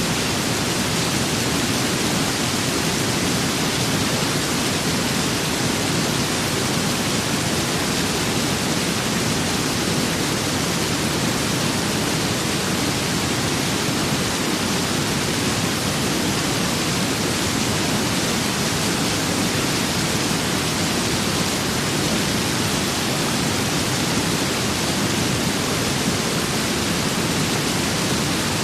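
Steady rain and wind ambience: an even, unbroken hiss with no separate drops or gusts standing out.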